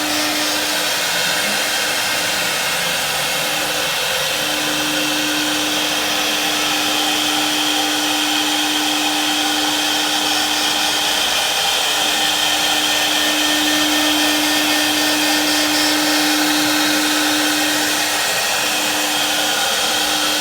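CNC machine running steadily, a constant motor hum and high whine over a loud hiss.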